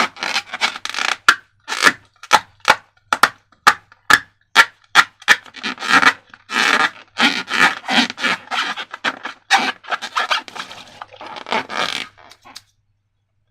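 Hands working slime-making materials, rubbing and scraping in quick, irregular strokes with some sharp clicks. The handling stops about a second before the end.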